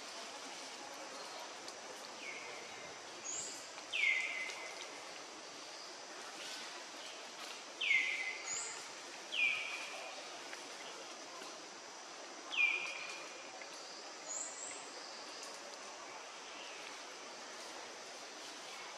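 Birds calling over a steady outdoor background hiss: about five loud, short calls that each slide downward, spaced a couple of seconds apart, with a few fainter, higher chirps in between.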